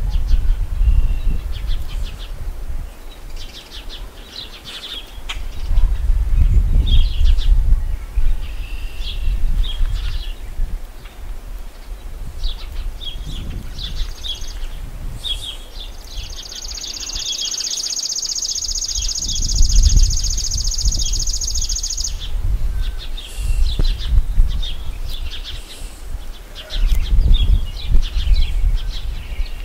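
Small birds chirping and calling again and again, over gusts of wind rumbling on the microphone. A steady high buzz comes in for about six seconds midway.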